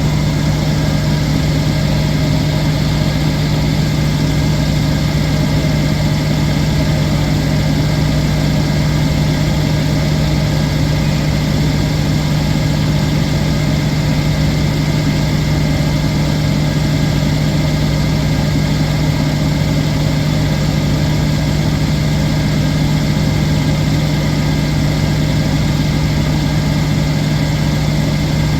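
Washing machine in its high-speed spin, a steady, even hum; the drum is spinning so fast that the machine is shaking.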